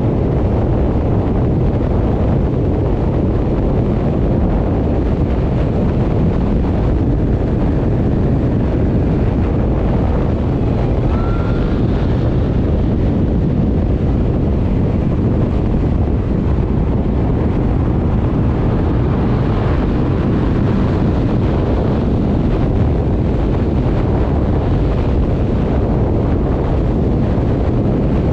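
Steady loud rush of wind over the microphone, with a low rumble underneath, as from riding an electric motorcycle at speed.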